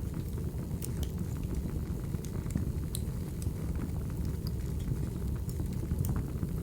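Wood fire crackling: a steady low rumble of burning logs with scattered sharp pops and snaps.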